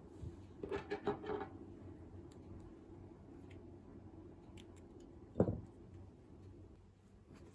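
Quiet handling sounds of hand embroidery: a short run of soft rasps about a second in, like thread drawn through fabric, and a single dull thump later on, over a steady low hum.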